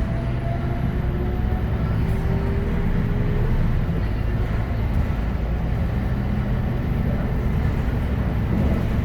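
Scania K310UB tag-axle bus running, heard from inside the cabin: a steady low engine and road rumble with a faint whine that drifts in pitch.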